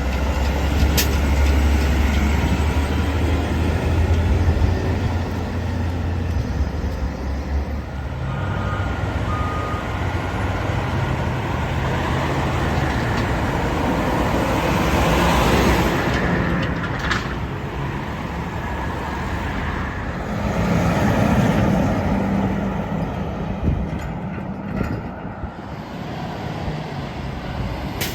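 Garbage truck engine running, loudest in the first several seconds, with road traffic swelling past twice.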